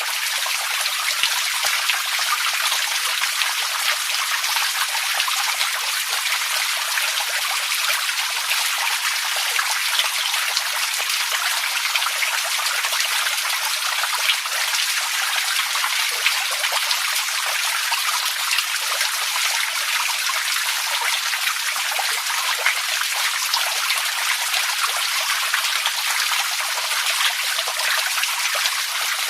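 Water running and trickling steadily, with many small splashes and drips, even and unchanging throughout.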